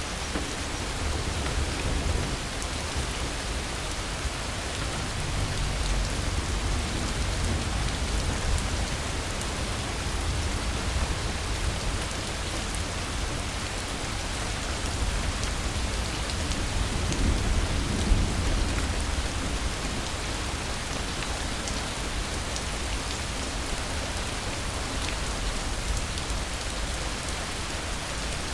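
Steady heavy rain, with low rolling thunder that swells about two seconds in and again a little past the middle.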